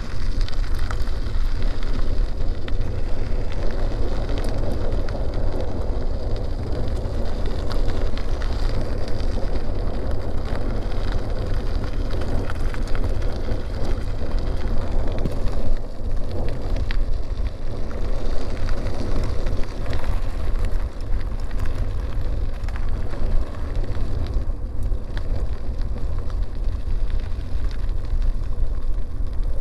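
Bicycle tyres rolling steadily over a dirt road, a continuous gritty noise, with wind rumbling on the microphone.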